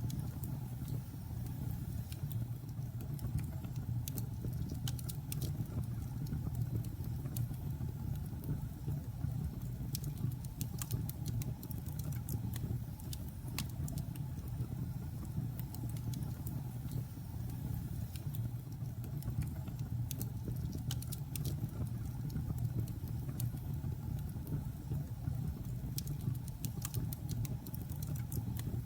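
Logs burning in a fireplace: a steady low rumble of flames with scattered sharp crackles and pops, coming thicker in places.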